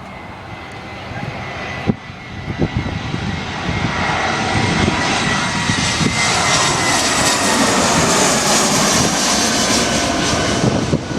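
Jet airliner passing low overhead. Engine noise with a high whine swells a few seconds in and stays loud, and the tones slide down in pitch as it goes by.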